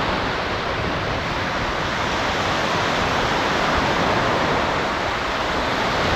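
Steady wash of waves breaking on the shore, an even, unbroken noise.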